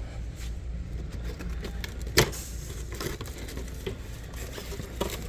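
Steady low hum of a shop interior with scattered small clicks and knocks of goods being handled, and one sharp knock a little over two seconds in.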